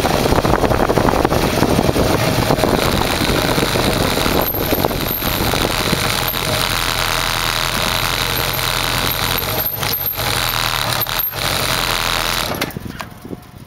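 Kawasaki Zephyr 550's air-cooled inline-four running as the bike is ridden slowly, with wind on the microphone, then idling steadily from about four and a half seconds in. About twelve and a half seconds in the engine is switched off at the key and the sound dies away.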